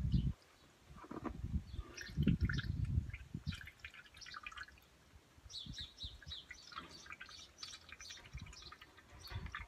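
Small birds chirping in quick, repeated calls. In the first few seconds there are low rustles and bumps of a cloth bag of cheese curds being twisted and handled over a basin.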